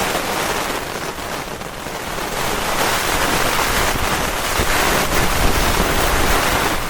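Heavy rain and strong gusting wind beating on a tent in a severe thunderstorm: a steady rush that grows louder from about halfway through as a gust builds.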